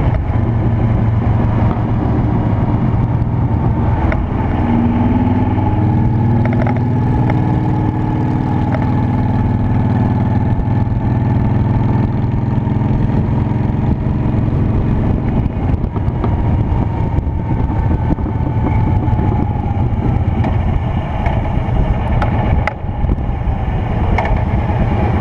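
Honda Shadow Spirit 750's V-twin engine running under way. Its pitch shifts up and down a few seconds in, then holds steady, with a few brief clicks over the engine.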